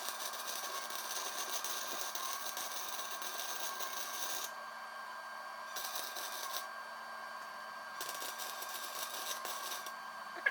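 Rapid mechanical clicking in three spells: a long one of about four and a half seconds, a short one, then a two-second one. A steady hum runs underneath.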